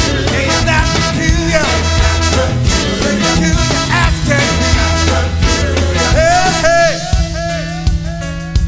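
Band playing an upbeat instrumental passage with a steady beat, a lead line bending up and down in pitch over it; the sound thins out a little near the end.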